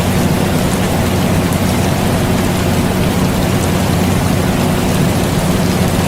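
Steady rain mixed with the constant hum of an air conditioner, unchanging throughout.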